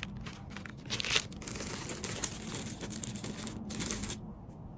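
Plastic packaging being handled, crinkling and rustling in quick bursts, which die away near the end.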